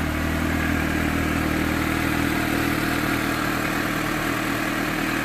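The 749 cc liquid-cooled, fuel-injected four-cylinder engine of a 2015 Suzuki GSX-S750 motorcycle idling steadily.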